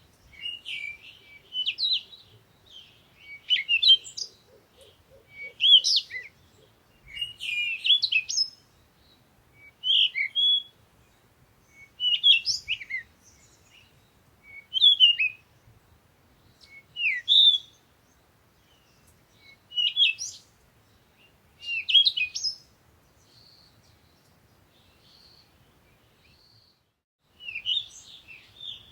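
A songbird singing short, chirping phrases over and over, about one every two seconds, pausing for a few seconds near the end.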